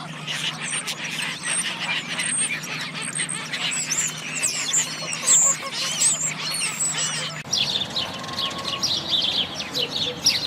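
Birds calling: ducks quacking among many short, high chirps, with a steady low hum beneath. About seven seconds in, the sound changes abruptly to a different recording of dense, rapid bird chirping.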